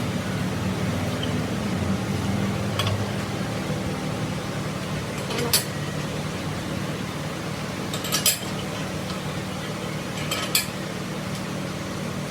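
Scattered sharp metal clinks, one at a time and a few seconds apart, over a steady low machine hum.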